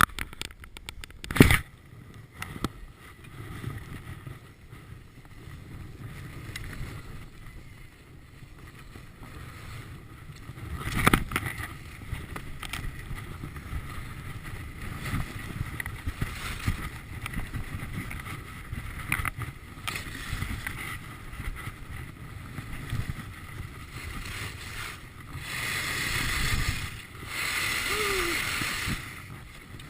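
Skis scraping and hissing over snow with wind rushing across the microphone, broken by two sharp knocks, one about a second and a half in and one about eleven seconds in; the hiss of the snow grows louder near the end.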